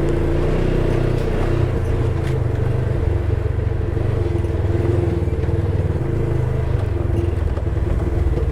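Polaris side-by-side engine running at a steady pace while driving, with a few small knocks from the machine over rough ground.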